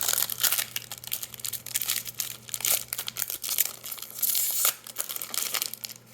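Foil booster-pack wrapper crinkling and crackling in the hands, in bursts with clicks as cards and wrapper are handled, stopping just before the end.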